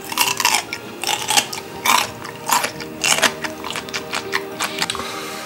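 Pickled chicken radish cube being chewed, crisp crunches about two a second, over soft background music.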